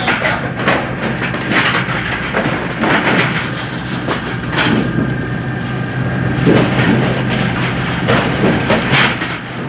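A squid-jigging boat's machinery running: a steady low drone with irregular clattering knocks every second or so.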